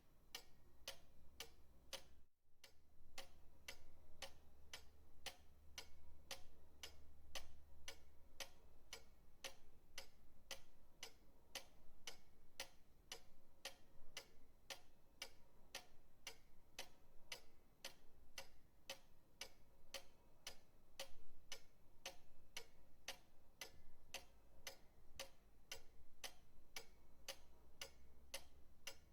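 Pendulum clock ticking steadily, about two ticks a second, with a very brief break in the sound about two seconds in.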